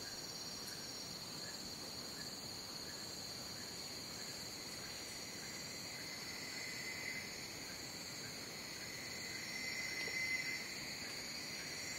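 Jungle crickets and other insects trilling in dense overlapping chorus, several steady high-pitched drones with a lower trill swelling louder over the second half and a faint chirp repeating about twice a second.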